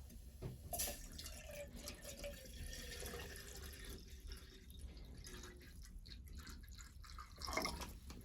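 Water being poured or trickling into a container, with a louder clunk near the end.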